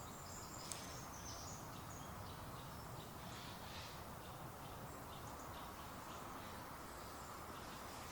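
Faint birdsong, scattered short chirps and calls, over a steady background hiss, with one faint click under a second in.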